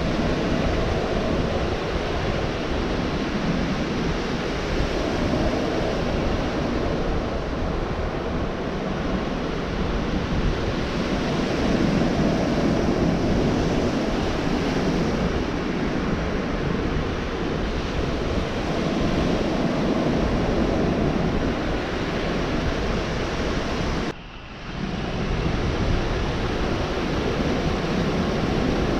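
Gulf of Mexico surf breaking and washing up on a beach: a steady wash of waves that swells and eases every few seconds, with a brief drop in sound near the end.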